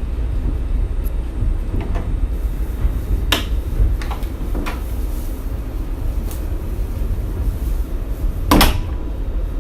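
Shonan Monorail car running, heard from inside the cabin: a steady low rumble with several sharp knocks and rattles from the rough-riding car, the loudest near the end.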